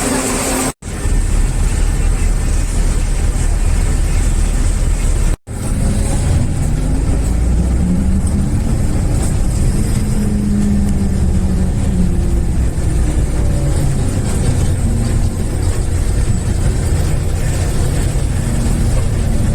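Inside a bus: the engine rumbles low and steady, then pulls away and accelerates. The sound drops out abruptly for an instant twice, once near the start and once about five seconds in.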